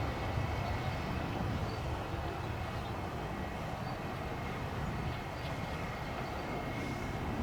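Steady low rumble of distant jet aircraft engines, with a faint high whine held throughout.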